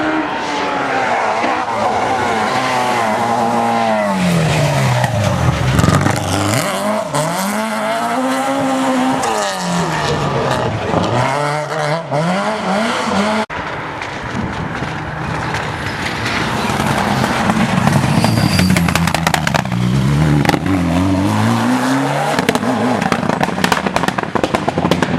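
Rally car engines at full throttle, the pitch climbing and dropping again and again through gear changes and lifts off the throttle. About halfway through, the sound breaks off abruptly to another rally car revving hard, with a run of sharp crackles.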